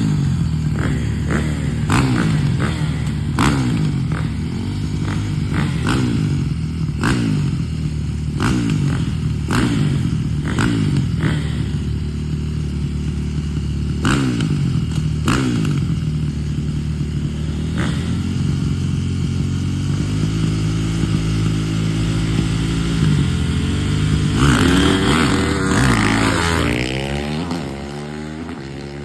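Dirt bike engines at full throttle, repeatedly revving up and dropping in pitch about once a second as they shift through the gears. Near the end a bike passes close and its note falls away as it goes off.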